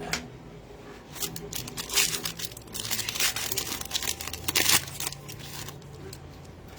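Plastic trading-card pack wrapper crinkling and tearing as a pack is ripped open. The rustling runs in irregular crackly bursts for about four seconds, then dies down.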